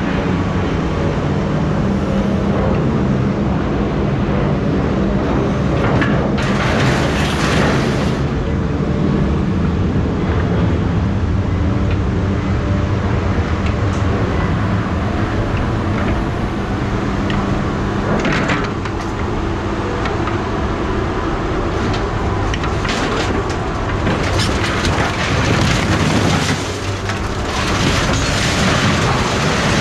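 A vehicle engine running steadily, with several louder bursts of rushing noise, one about a quarter of the way in, one past the middle and several near the end.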